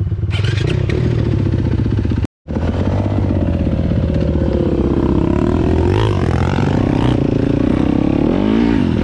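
Yamaha YZ250FX dirt bike's four-stroke single running under the rider, its revs rising and falling as it moves off on the trail. The sound cuts out for a moment about two seconds in.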